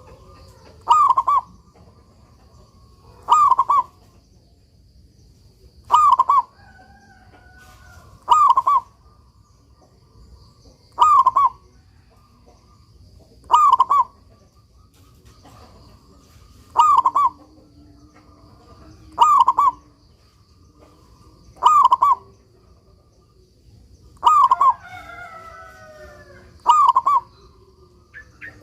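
Zebra dove (perkutut) singing its short cooing phrase over and over, about once every two and a half seconds, in full song.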